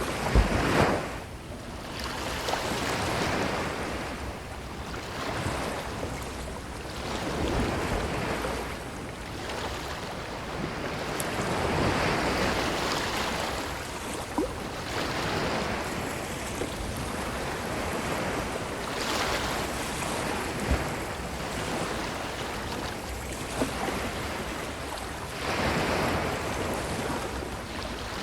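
Ocean waves breaking and washing up a beach, the surf swelling and falling away every few seconds, with a sharp louder burst about a second in.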